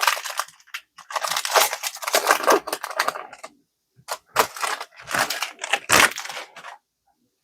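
Foil Pokémon card booster pack crinkling as it is handled and torn open, in two spells of crackling separated by a brief pause.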